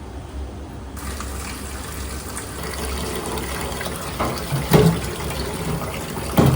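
Water running from a tap, starting about a second in, with a few knocks near the end.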